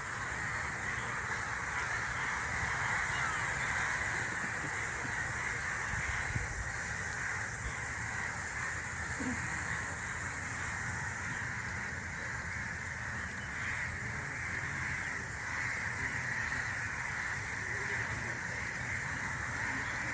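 Steady forest ambience: a dense, unbroken high-pitched chorus of wild creatures with no separate calls standing out.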